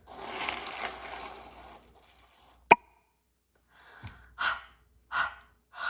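A woman's long breathy exhale, then a single sharp click, then three short puffs of breath like the /h/ sound.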